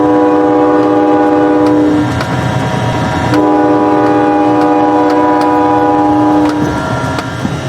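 Multi-note train horn blowing two long blasts, about two and then three seconds long, with a short break between.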